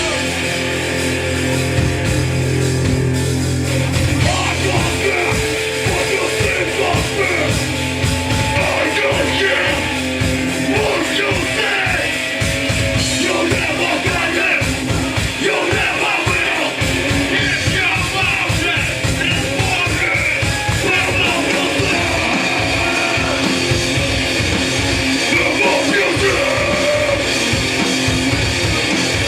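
Hardcore punk band playing live: loud distorted guitars and bass over fast drumming, with shouted vocals. It opens on held, ringing chords, and the drums come in hard about four seconds in.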